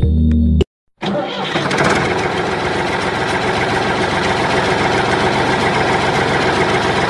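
A motor engine starting up about a second in and running steadily, coming in abruptly after a brief silence.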